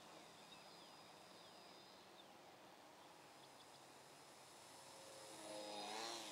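Small electric motor and propeller of a foam RC Nutball plane buzzing faintly in flight, growing louder and wavering in pitch near the end as it passes closer.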